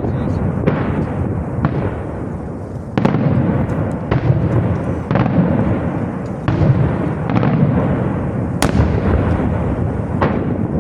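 Aerial fireworks display: shells bursting in quick succession, sharp reports about once a second over a continuous low rumble of booms, with the sharpest crack a little before the end.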